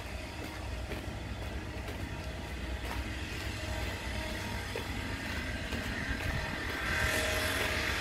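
Steady low rumble and hiss of a standing oil tank-car freight train, with a few faint clicks; a higher hiss swells near the end.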